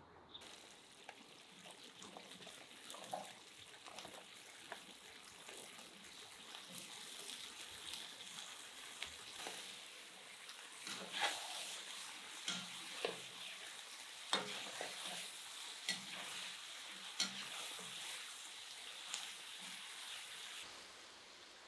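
Browned lamb and onions sizzling in hot fat in a cast-iron pot as diced potatoes are tipped in and then stirred. In the second half, sharp knocks of the stirring utensil against the pot come about once a second over the steady sizzle.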